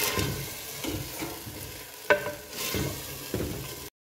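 Beef and ginger-garlic paste sizzling in hot ghee in a clay pot while a wooden spatula stirs it. The spatula knocks sharply against the clay three times: at the start, about two seconds in, and about three and a half seconds in. The sound cuts off suddenly just before the end.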